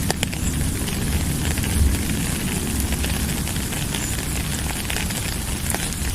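Steady rain falling, with many individual drops ticking and a low rumble underneath.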